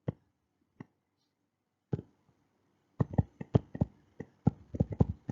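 Light clicks and taps close to the microphone: three single ones spaced about a second apart, then a quick irregular run of about a dozen in the last two seconds.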